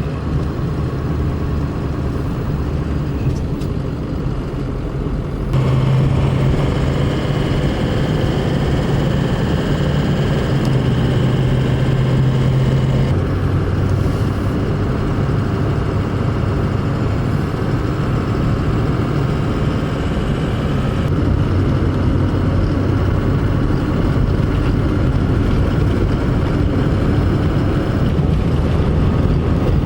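Steady engine and road drone of a car or truck, heard from inside the cabin while driving. The drone shifts abruptly in pitch and level a few times.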